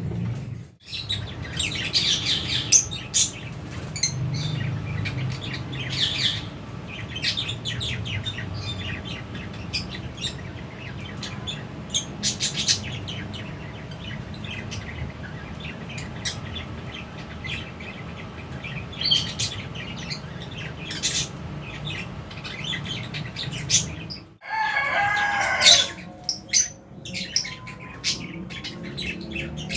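A flock of lovebirds chirping in an aviary: many short, high chirps and tweets overlap over a steady low hum. A louder, lower call stands out about 25 seconds in.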